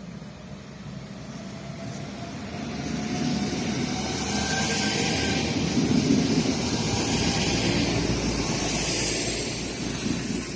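Diesel train passing close by. Its engine and wheel rumble build steadily to the loudest point about six seconds in, then ease off, with a faint whine gliding under the noise.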